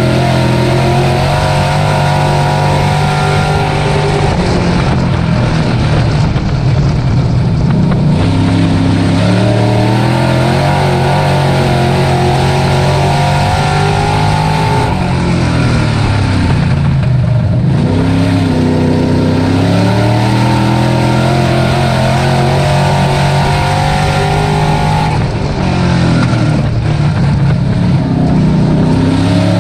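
Dirt-track race truck's engine running hard at full race pace. Its pitch drops three times, roughly nine seconds apart, as the throttle is lifted, then climbs again under acceleration.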